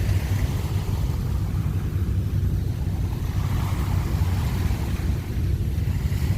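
Wind buffeting the microphone: a steady, rough low rumble with no other clear sound.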